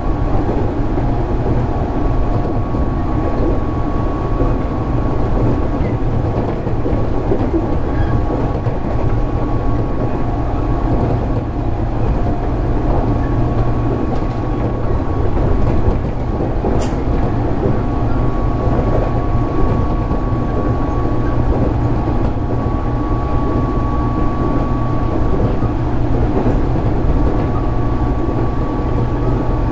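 JR 205 series (600 subseries) electric commuter train running at steady speed, heard from inside the car: a continuous rumble of wheels on rail with a steady high whine, and a single sharp click about 17 seconds in.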